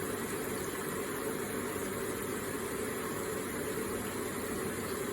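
Water flowing steadily and gently from an electric water feature, an unbroken, even sound.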